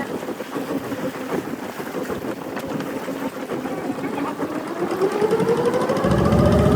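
Boat engine running and speeding up: its pitch rises steadily and it grows louder from about four seconds in.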